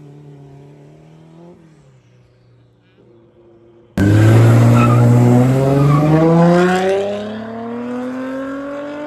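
A drag-racing car's engine accelerating hard close by, its pitch climbing steadily through a long pull. It cuts in loud and suddenly about four seconds in, after a faint engine fading away at the start.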